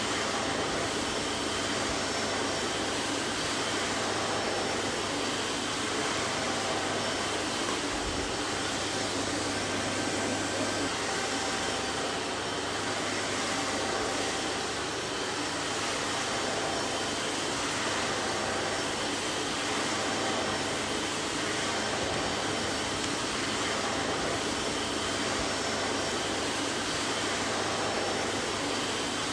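Vacuum cleaner running steadily: an even rushing hiss with faint high whining tones over a low hum.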